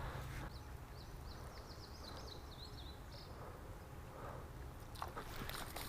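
A songbird sings a quick series of short, high chirping notes for about two and a half seconds, faint against quiet outdoor background noise. A few faint clicks follow near the end.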